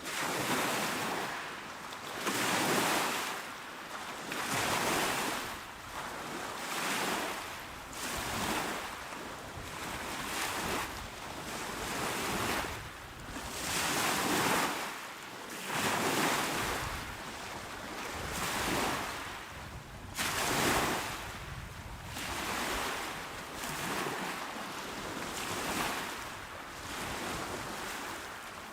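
Small waves washing onto a shore, each swelling and falling away about every two seconds in a steady rolling rhythm.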